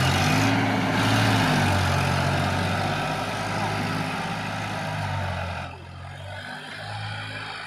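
Tractor diesel engine running, its pitch rising and falling briefly near the start. A loud rushing noise over the engine drops away about six seconds in, leaving the engine quieter.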